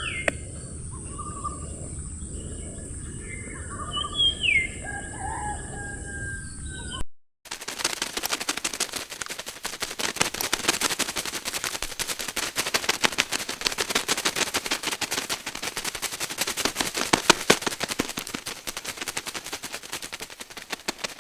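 Birds chirping over steady outdoor background noise. About seven seconds in, this cuts to a long, dense crackle of rapid clicks that goes on to the end and is the loudest sound.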